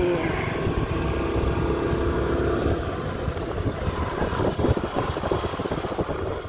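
Road noise from a moving vehicle: a steady engine and wind rumble.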